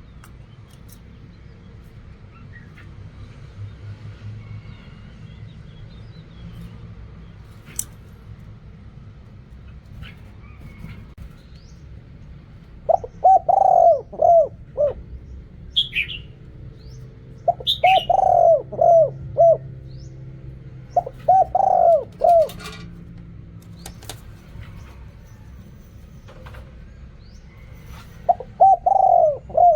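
Spotted dove cooing in four separate phrases of several short coos each. The first phrase comes about halfway through, after a stretch of only low background hum. A few brief, higher chirps fall between the phrases.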